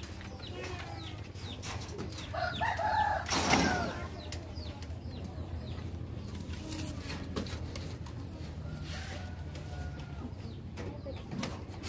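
Birds calling in the background, with hen-like clucking: short arching calls repeated throughout. A louder call comes about two and a half seconds in, followed by a brief noisy burst, over a low steady hum.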